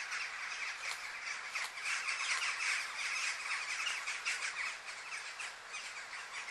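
Outdoor ambience of birds calling: a steady chatter of many short, high-pitched chirps.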